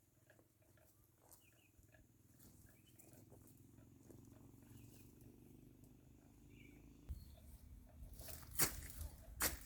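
Faint outdoor ambience with small, high animal or bird calls over a low steady hum, then several sharp clicks or knocks in the last second and a half.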